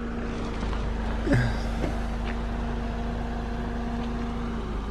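A car engine running steadily at idle: a low hum with a steady tone above it that cuts off near the end.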